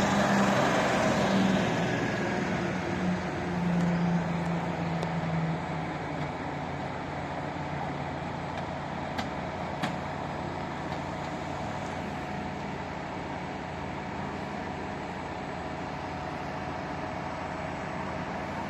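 Road traffic with a motor vehicle's low engine drone and a rushing pass that are loudest in the first few seconds, then a steady traffic hum. Two sharp clicks come about nine and ten seconds in.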